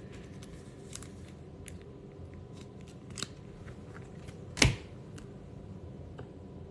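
Baseball trading cards being handled and sorted by hand: faint scattered clicks and rustles, with one louder short knock about four and a half seconds in.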